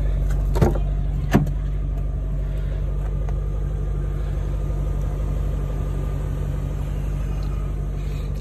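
BMW E39 M5's S62 V8 idling steadily, with two sharp clicks near the start as the rear door is unlatched and opened.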